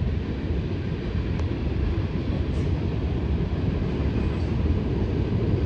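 Diesel freight train rumbling steadily, a low continuous rumble.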